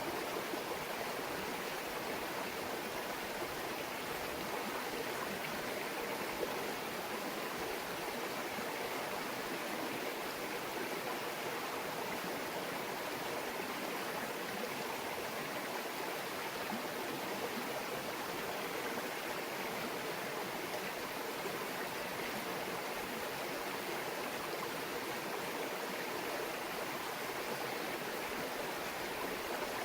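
Small stream babbling steadily over rocks, an even, unbroken rush of water.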